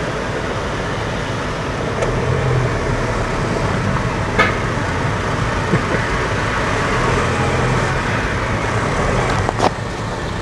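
A car driving at low speed: the steady hum of its engine and tyres, heard from inside the cabin. Two short sharp clicks come through, one about four seconds in and one near the end.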